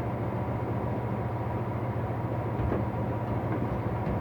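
A steady low mechanical hum with a faint constant tone above it, and a couple of light knocks of tools being handled, one a little past halfway and one near the end.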